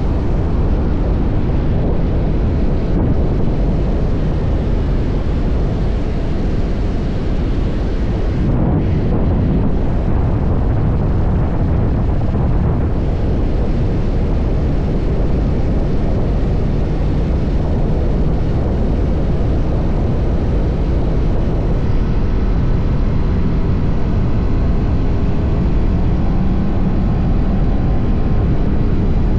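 TVS Apache RR310's single-cylinder engine running steadily through its stock exhaust while riding, under a dense rush of wind and road noise.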